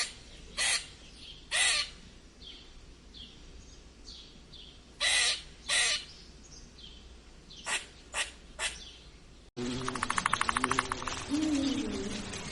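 Loud, harsh bird calls, eight in all, in groups of three, two and three, over faint chirping. After an abrupt cut a different recording begins, with a rapid pulsing trill and lower sliding calls.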